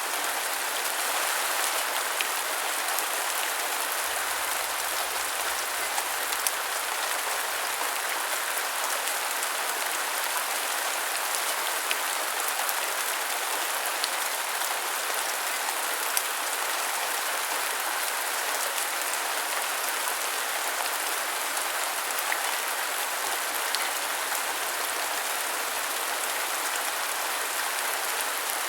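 Steady rain falling and pattering on a surface, an even hiss with scattered sharper drop hits.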